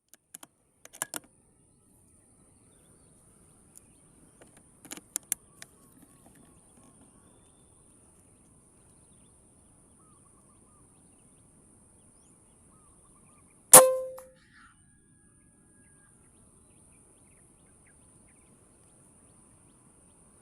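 A single sharp air rifle shot about 14 seconds in, far louder than anything else, dying away over about half a second. A few faint clicks come before it, around one and five seconds in.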